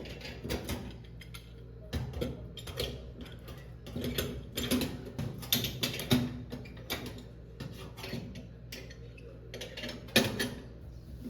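Irregular clicks, knocks and clatters of hard objects being handled, over a steady low hum.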